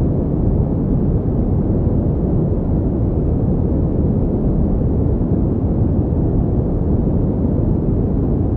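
Continuous pink noise, a steady, deep hiss with most of its weight in the low range and little treble, unchanging throughout.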